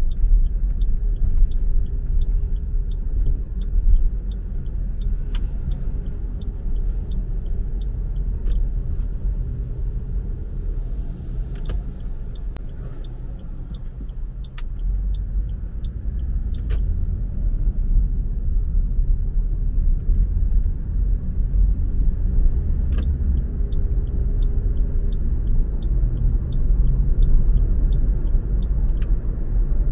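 Car driving, with a steady low rumble of road and engine noise. A regular light ticking, about two ticks a second, runs for roughly the first third, stops, and returns near the end; a few scattered sharp clicks come in between.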